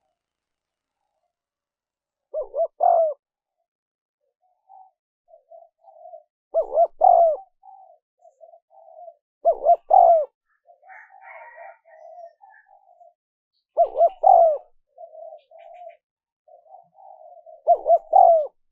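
Spotted dove cooing: five loud, short three-note coo phrases, roughly one every four seconds, with softer, broken cooing in between.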